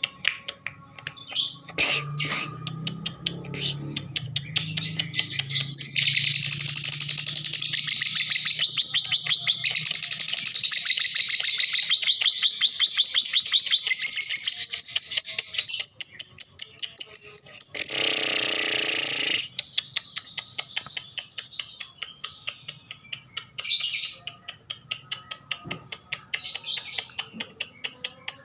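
Lovebird chattering: a fast, dense run of chirps for about ten seconds, then a held high call with a short harsh burst, followed by scattered single chirps.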